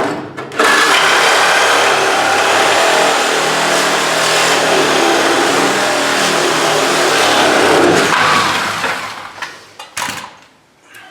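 Sawzall reciprocating saw cutting through rusty car-body sheet metal for about eight seconds on a blade that has seen better days, then winding down, followed by a single knock.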